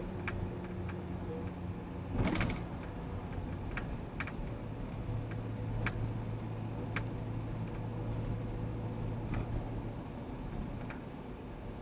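Inside the cab of a GAZ Sobol van on the move: steady engine and road noise with a low hum, and scattered light clicks and rattles, the loudest just after two seconds in.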